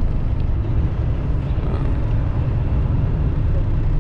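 Steady low rumble of a semi truck's diesel engine and road noise, heard from inside the cab.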